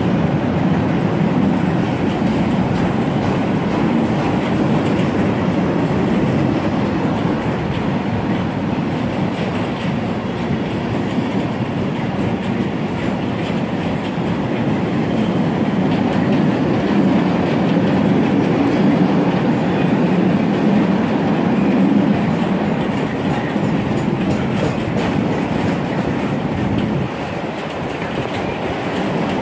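Freight train of curtain-sided wagons rolling past close by at steady speed: continuous wheel-on-rail noise from the passing wagons, dropping a little in loudness near the end.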